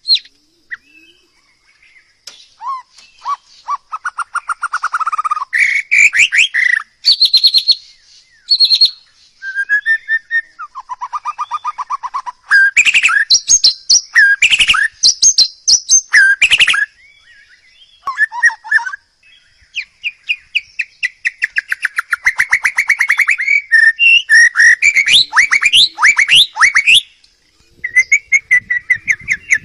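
Songbird singing a loud, varied song: phrases of rapid trills, chirps and whistles, separated by short pauses.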